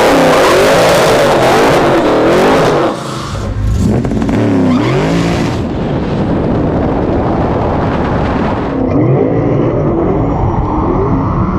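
Drag-race launch: a Mustang's engine at full throttle, its pitch climbing and dropping again with each gear shift, over heavy wind and road noise. It is loudest for the first three seconds, then eases off a little.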